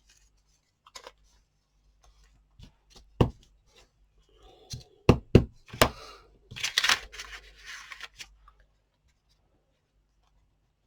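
Paper scraps being handled and rustled, with several sharp taps and clicks on the work surface.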